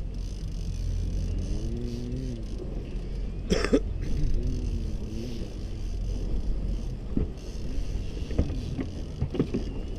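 Steady low rumble of a fishing boat running under way, with a short loud burst about three and a half seconds in and a few faint clicks near the end.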